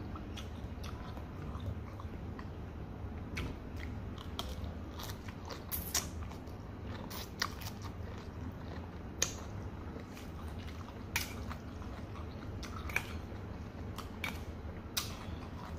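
Close-up chewing and mouth sounds of a person eating fried noodles, with a few sharp clicks every second or two, over a steady low hum.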